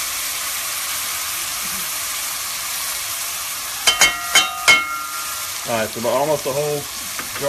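Diced onions and celery sizzling steadily in hot oil and meat drippings in a pot on a gas stove. About four seconds in come about four sharp, ringing clinks of glass or metal.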